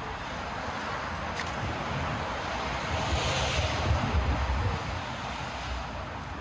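Street traffic noise: a passing vehicle's engine and tyre noise swells to a peak with a low rumble around the middle and then fades.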